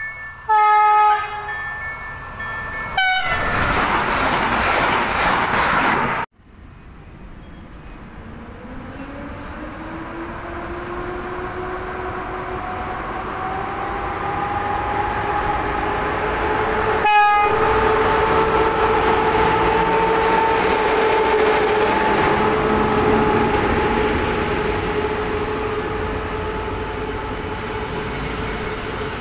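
A passenger train sounds a short horn blast about a second in, then rushes past loudly until the sound cuts off abruptly. Then an EP07 electric locomotive hauls its coaches slowly past, with a growing rumble and a drawn-out tone that rises in pitch and then holds.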